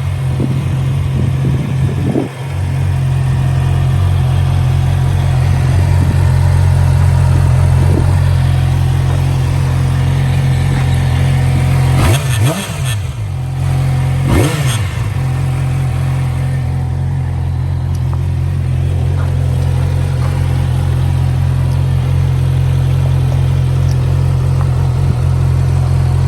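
2018 Yamaha R6's inline-four engine idling steadily, with two quick throttle blips in the middle where the revs rise and fall back, and a smaller blip near the start.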